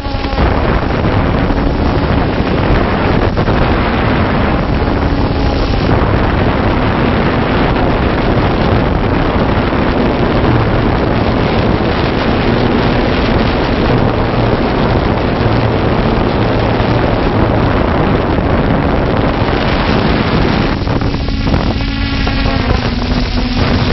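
Multirotor drone's motors and propellers whirring steadily under heavy rushing noise, the hum wavering slightly in pitch, with a brief burst of higher whine near the end.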